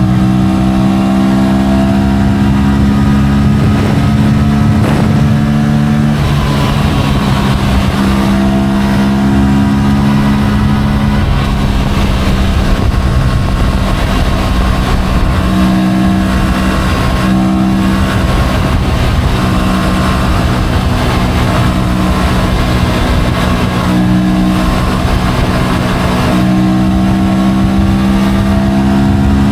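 Motorcycle engine running while riding, its note stepping up and down with the throttle several times, over a steady rush of wind and road noise.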